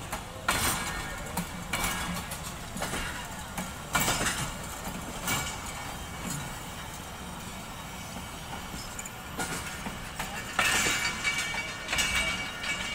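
Passenger train coaches rolling past, wheels knocking over the rail joints about once a second, with a quieter stretch in the middle and more knocks near the end.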